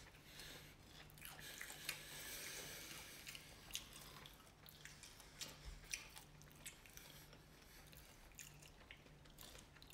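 Faint chewing of French fries, with scattered soft mouth clicks and ticks, over a low steady hum.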